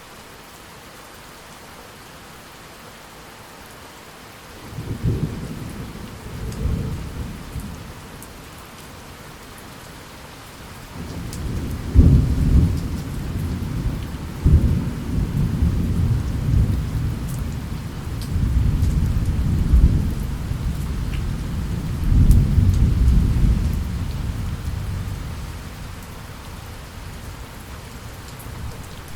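Steady heavy rain with thunder: a couple of short low rumbles about five seconds in, then a long rolling peal of thunder from about eleven seconds, with several loud cracks within it, that slowly dies away near the end.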